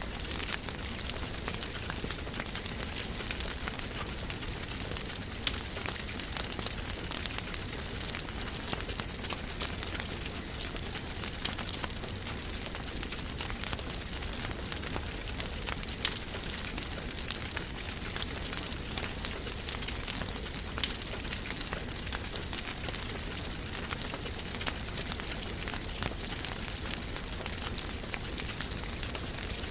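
Wood fire burning in a fireplace: a steady hiss with many small crackles and an occasional louder pop.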